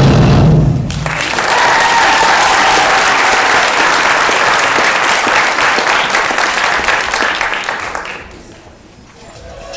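Music cuts off just under a second in, then an audience claps steadily for about seven seconds, fading away near the end.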